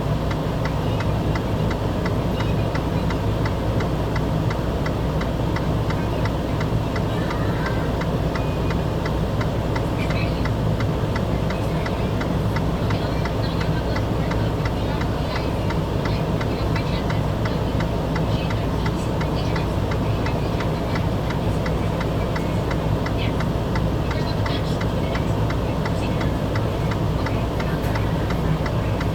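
An engine running steadily, with a low hum and a fast, even ticking clatter.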